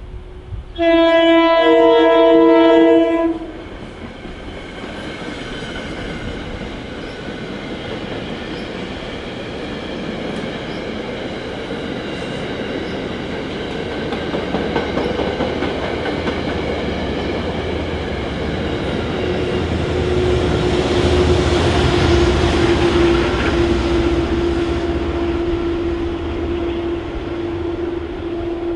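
Amtrak locomotive horn sounding one chord blast of a few notes for about two and a half seconds, then the passenger train running past with a rising rumble and rattle of wheels on rail. A steady hum joins from about two-thirds of the way in.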